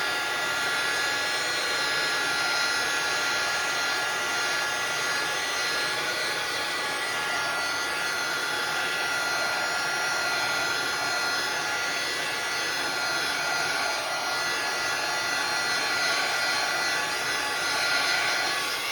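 Handheld craft heat tool blowing steadily with a constant motor whine, drying wet watercolor paper.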